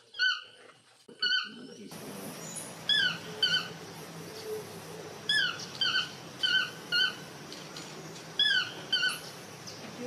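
Bird calls: short, squeaky notes that slide downward, repeated mostly in pairs every second or so. A steady background hiss comes in about two seconds in.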